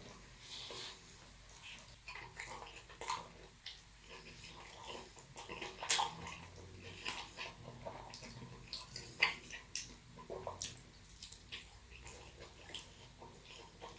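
Close-miked mouth sounds of someone chewing a large burrito: irregular wet smacks and clicks of lips and teeth, with a few sharper smacks.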